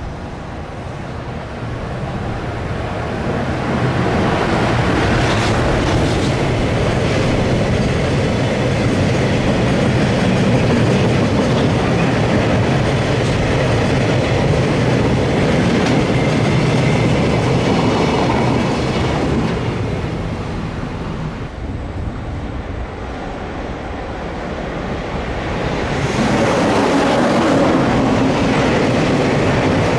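Freight train of tank wagons rolling past behind an EF210 electric locomotive, the noise building as the train comes by, easing off about two thirds of the way through. Near the end another freight train of tank wagons is heard rolling past.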